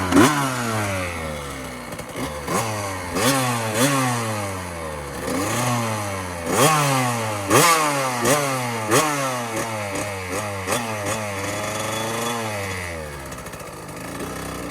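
Small 65cc two-stroke dirt bike engine revving up again and again in first gear, the pitch climbing and dropping back about once or twice a second as it pulls away slowly. Near the end the revs fall away and the engine quietens.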